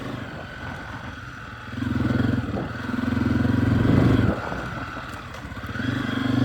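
Dirt bike engine being ridden, its note rising and falling with the throttle: pulling harder about two seconds in, easing off past four seconds, and picking up again near the end.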